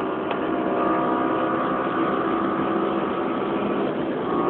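BMW M6 engine and road noise heard from inside the cabin at high speed, above 200 km/h: a steady engine drone over a rushing haze. The engine note dips briefly about four seconds in, then picks up again.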